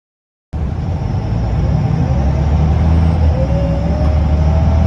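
Scania L94UB bus's diesel engine running under way, a steady low rumble that cuts in about half a second in, with a faint whine rising in pitch from the drivetrain around the middle.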